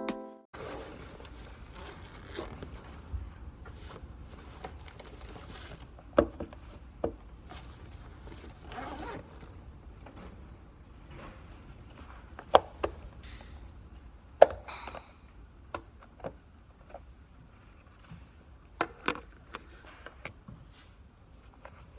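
Handling sounds: scattered light clicks, knocks and rustles of small objects being picked up and set down, over a faint steady room hum.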